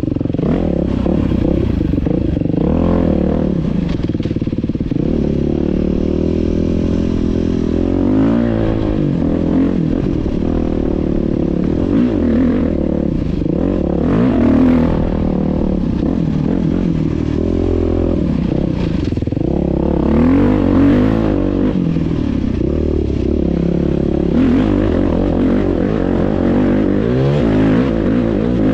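Dirt bike engine running continuously, its pitch rising and falling again and again as the throttle is opened and closed, with some clatter mixed in.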